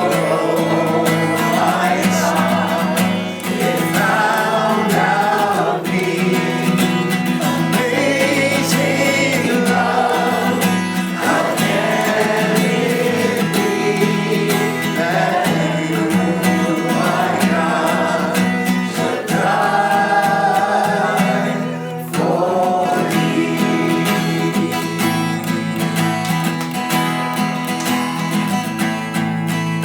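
Congregation singing a hymn together, accompanied by strummed acoustic guitar.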